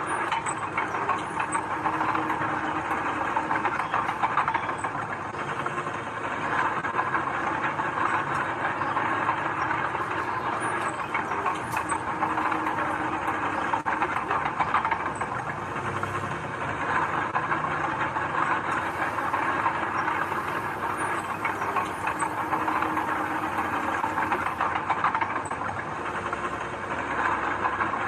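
Heavy diesel earthmoving machinery running steadily, engine noise mixed with a rattling, clanking texture.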